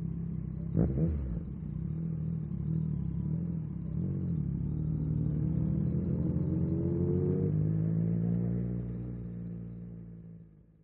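Yamaha MT-09 SP's inline-three engine through an Akrapovic exhaust, running with a sharp pop about a second in, then accelerating with a rising pitch before the sound fades out near the end.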